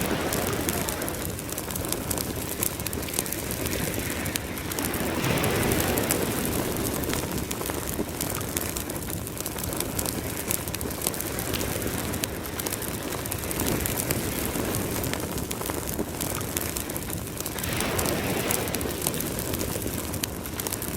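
Campfire crackling with sharp pops and snaps over ocean waves that wash in, swelling every few seconds.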